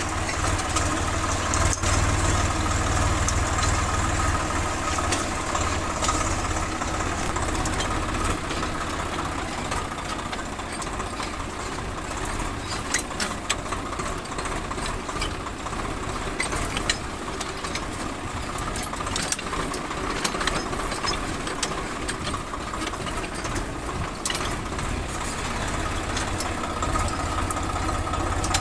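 Tractor engine running steadily with a deep low hum, with scattered clicks and rattles throughout.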